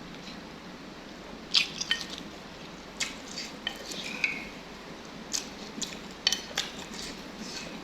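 Eating utensils clinking and scraping against a bowl of noodle soup: a scattered string of about a dozen light, sharp clinks.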